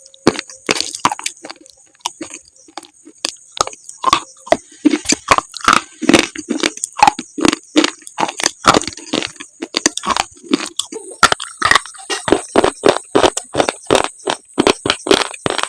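Close-miked crunching and chewing of slate: a rapid run of sharp, brittle cracks, several a second.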